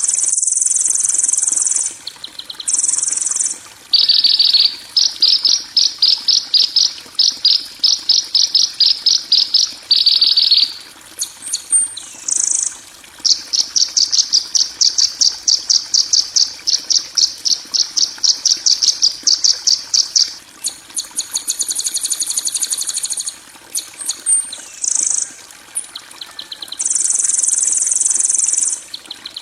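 Recorded harsh, buzzy birdsong for training cage birds: long high-pitched rasping buzzes of one to two seconds alternate with rapid pulsed trills of about three to four notes a second, each running for six or seven seconds.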